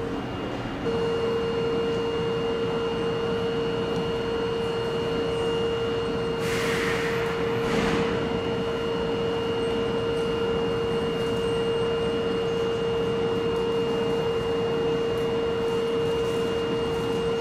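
E26-series Cassiopeia sleeper train standing at the platform, giving off a steady, even hum. About seven seconds in there is a short hiss of air.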